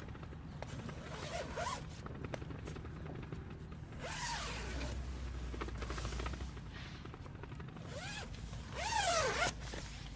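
A zipper is drawn three times: faintly about a second and a half in, again around four seconds, and loudest near the end, each pull a quick sweep that rises and falls in pitch.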